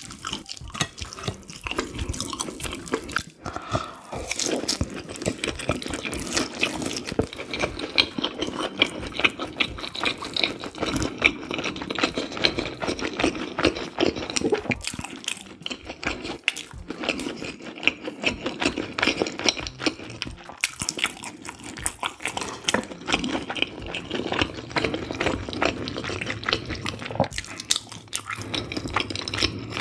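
Close-miked eating sounds: wet, sticky chewing and mouth noises, with many small clicks and squelches, as noodles in spicy soup and a chive pancake are chewed.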